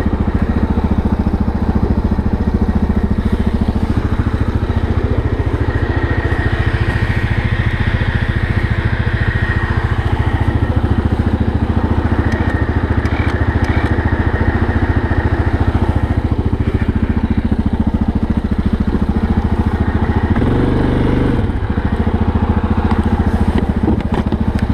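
ATV engine running steadily while its electric winch pulls the stuck machine out of deep snow, with a thin high whine for several seconds in the middle. The engine note shifts briefly near the end, and the sound cuts off abruptly.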